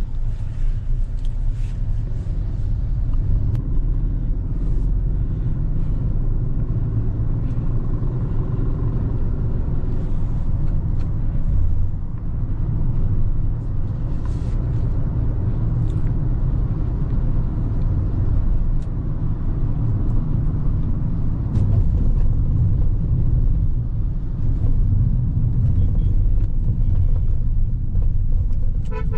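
Hyundai Creta petrol engine and road noise heard inside the moving car: a steady low rumble with the engine's pitch wavering gently as it drives. A car horn toots right at the end.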